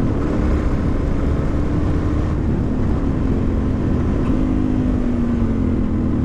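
2000 Suzuki DR-Z400's single-cylinder four-stroke engine running under way, with wind rush. The engine note drops about two seconds in and sinks lower again near the end.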